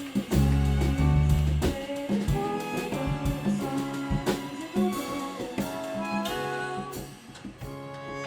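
A band playing an instrumental passage with a jazz feel: bass guitar, drums and trumpet over strings and piano. Heavy low bass notes mark the first couple of seconds, and the playing thins out briefly near the end.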